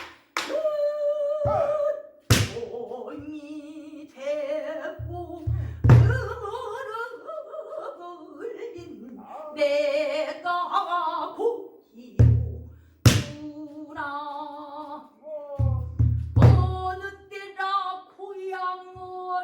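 Pansori singing: a single voice holding long, wavering, ornamented notes. It is accompanied by a buk barrel drum, with deep thuds from the palm on the drumhead and sharp clacks from the stick on the rim, in a few clustered strokes.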